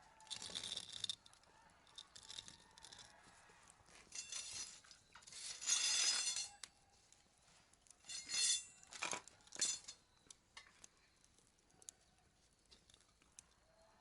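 Hard objects being handled: a series of short clatters of clinks and scrapes, the busiest around the middle.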